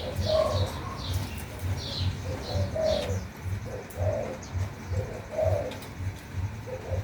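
A dove cooing over and over, with small birds giving short high chirps during the first few seconds. A low pulsing throb, a little under three beats a second, runs underneath.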